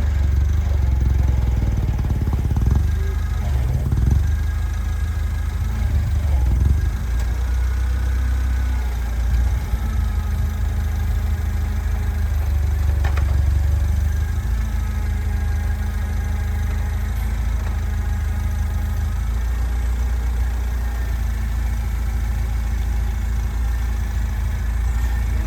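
An engine running steadily at low revs, with a few clattering knocks in the first several seconds.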